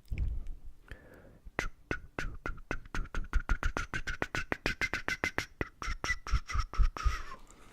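A quick run of sharp clicks close to the microphone, closing up to about four or five a second, over a faint steady high tone; the clicks stop about a second before the end.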